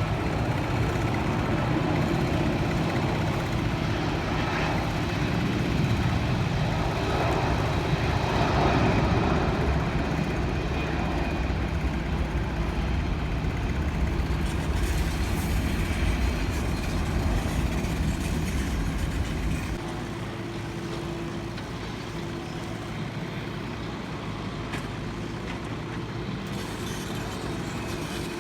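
Steady engine rumble, loudest about eight seconds in, with the deepest part of the rumble dropping away suddenly about twenty seconds in.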